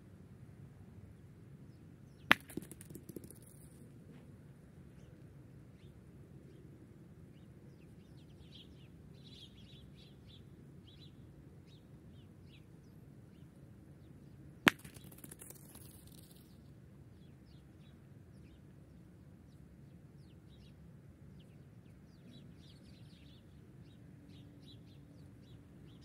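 Steel pétanque boules striking, two sharp clacks about twelve seconds apart, each with a short ringing tail and a few smaller knocks after it. Faint bird chirps come in between.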